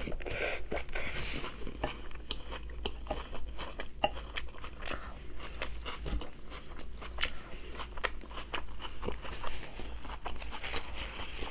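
Close-miked chewing and biting of food: an irregular run of crisp crunches and small wet mouth clicks.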